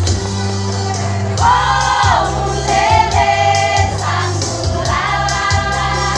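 Choir singing a song over an accompaniment with a bass line and a steady beat; the voices come in about one and a half seconds in and hold long notes.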